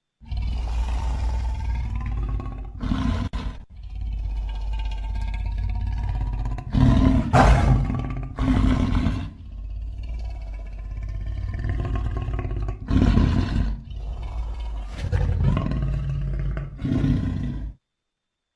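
A deep, layered monster roar built from giant-ape and lion roars: a series of long roars and growls with several louder peaks, cutting off suddenly near the end.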